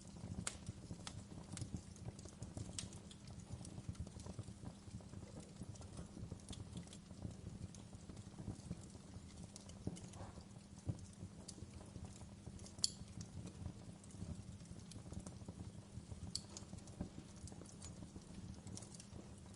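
Wood fire crackling, with irregular sharp pops and clicks over a steady low rumble of burning; one louder pop about thirteen seconds in.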